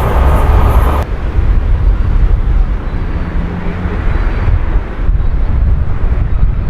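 A passing train's rolling noise that cuts off suddenly about a second in as the end of the train goes by, leaving a heavy low rumble of wind on the microphone.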